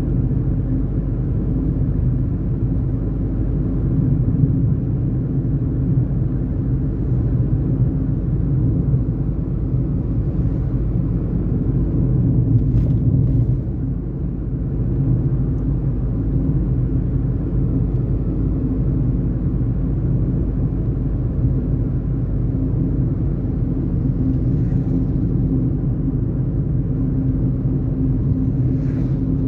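Tata Tiago NRG hatchback driving along, a steady low drone of engine and road noise. It dips briefly about halfway through, and there are a few faint short higher noises.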